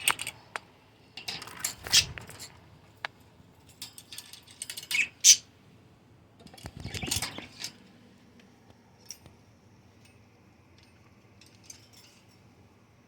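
Pet budgerigars clattering about their cage: scattered metallic clicks, jingles and scratches in clusters, busiest in the first eight seconds and thinning out after.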